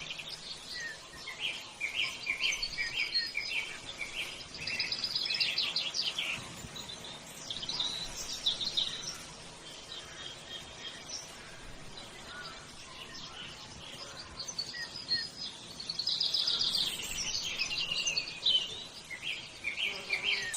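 Small birds calling: quick high chirps and rapid trills, several overlapping, coming in bouts with a quieter stretch in the middle.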